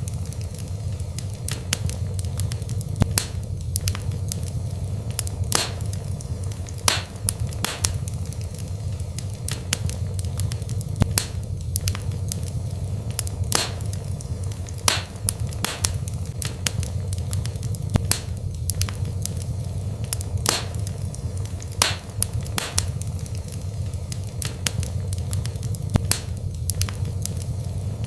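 Wood fire burning in a fireplace: a steady low rumble from the flames with irregular sharp crackles and pops, one to three a second.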